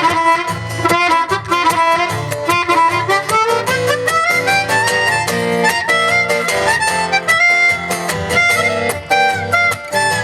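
Live band playing an instrumental break between verses: a sustained melodic lead line over a steady rhythmic accompaniment.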